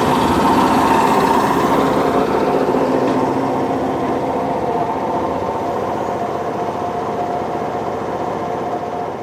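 Chichibu Railway 5000 series electric train running: a steady rumble with a held electrical whine, gradually getting quieter.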